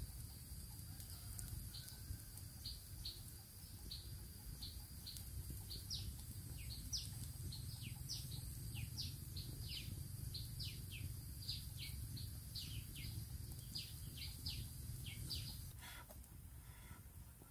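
A bird calling: a long run of short, high notes, each dropping sharply in pitch, two to three a second, stopping shortly before the end. A steady high whine runs beneath it.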